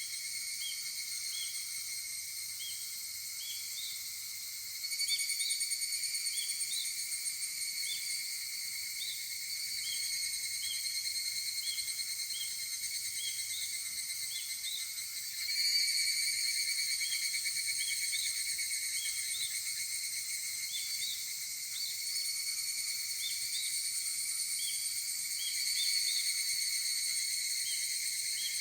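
Higurashi (evening cicadas, Tanna japonensis) calling in a chorus of rapid, pulsing, ringing song. A nearer cicada comes in louder about five seconds in, again about halfway through and again near the end, over a faint chirp repeated about once a second.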